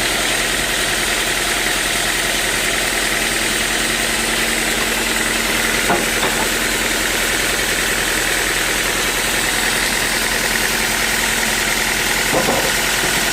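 Sawmill machinery running steadily with a constant whine, with two brief louder sounds, one about six seconds in and one near the end.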